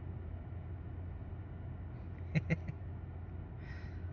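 Subaru Outback 3.0's flat-six engine idling steadily, heard from inside the cabin as a low, even hum, with two short clicks about two and a half seconds in.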